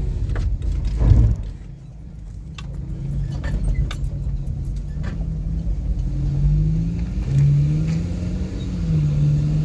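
Car engine and road rumble while driving, with a thud about a second in and scattered clicks and rattles. From about six seconds in the engine note rises, dips and rises again as it accelerates.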